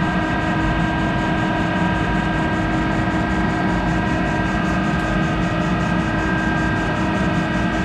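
Monarch 10EE lathe running steadily while cutting a hardened tool holder: a constant machine hum and whine, several held tones over an even hiss, with no change in pace.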